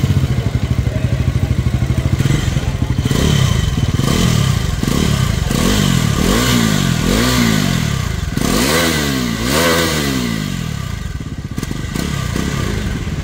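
Bajaj Pulsar NS400Z's 373 cc single-cylinder engine idling, then revved in a run of about five quick throttle blips, each rising and falling in pitch, from about four to ten seconds in, before dropping back to idle.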